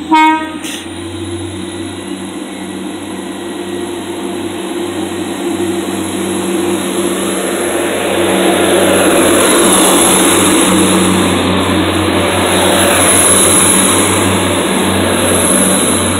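Class 175 diesel multiple unit passing through the station at speed. A short horn blast sounds right at the start, then the diesel engines and wheels on the rails grow steadily louder and are loudest as the carriages go by from about halfway through, with a steady high whine above.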